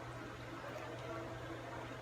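Quiet background: a faint steady low hum and hiss, with no distinct event.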